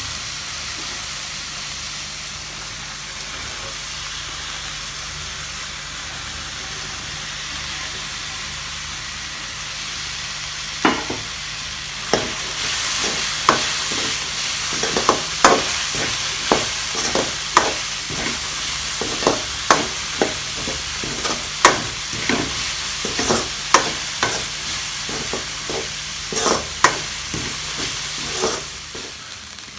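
Chopped carrots and beans sizzling as they fry in hot oil in a pan. About a third of the way in, a spatula starts stirring them, knocking and scraping against the pan over and over.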